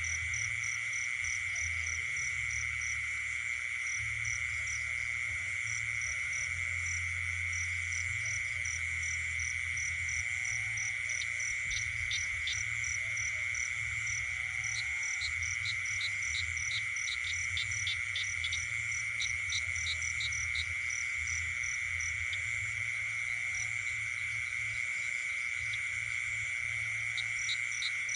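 Night chorus of frogs and insects: a steady high insect drone runs throughout, with a rapid regular chirping of about four pulses a second above it. Bursts of quick clicking calls come through the middle, and a low rumble sits underneath.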